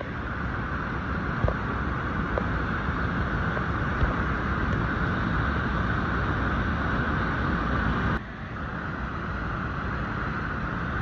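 Waterfall: a steady rush of falling water that drops slightly in level and changes character about eight seconds in.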